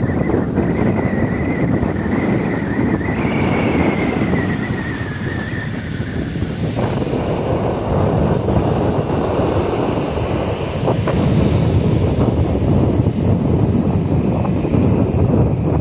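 Wind buffeting the microphone over Lake Michigan surf breaking on the beach, a steady rumbling wash of noise. A faint thin wavering tone sounds through the first five seconds or so.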